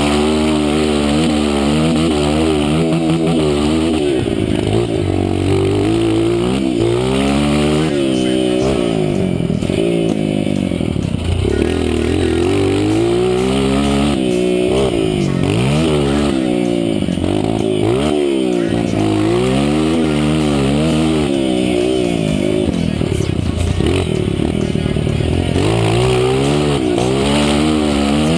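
Honda CRF 230 dirt bike's single-cylinder four-stroke engine run hard, its pitch climbing and dropping again and again about every two seconds as the rider accelerates, shifts and backs off.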